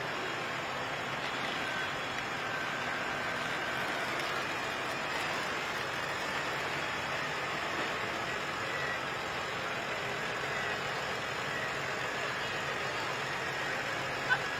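Tractor engines idling in a steady din, with one sharp click near the end.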